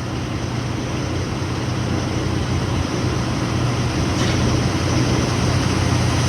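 Diesel fuel running from a truck-stop pump nozzle into a semi truck's tank as it is topped off to the rim: a steady rush over a constant low hum, slowly getting louder.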